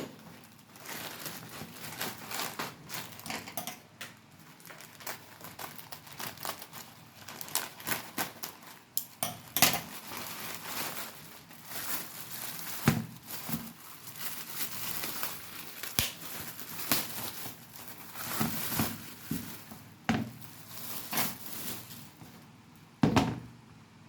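Plastic packaging being handled and torn open: continuous crinkling and crackling with sharp rips and handling clicks, and a louder knock near the end.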